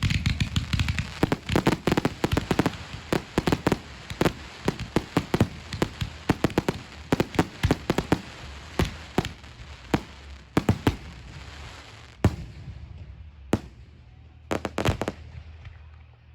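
Aerial fireworks going off in a rapid barrage of sharp bangs, several a second, thinning about twelve seconds in to a few scattered bangs near the end.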